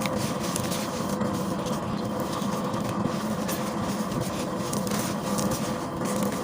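Gritty paste being crumbled and squeezed: a dense, irregular crackling over a steady hum.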